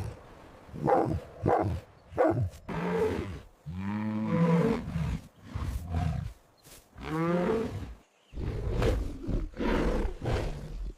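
A big cat roaring and growling: a run of short growls, two longer pitched roars about four and seven seconds in, then more short growls near the end.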